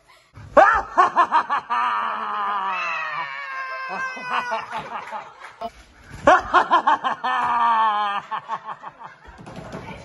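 Children shrieking and laughing in fright, in two bouts: a quick run of high, pulsing yelps that stretches into a long falling scream, then again about six seconds in.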